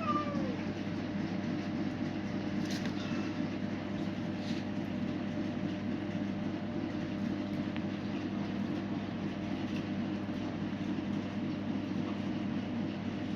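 Steady low mechanical hum, with one short falling cat meow right at the start and a couple of faint clicks a few seconds in.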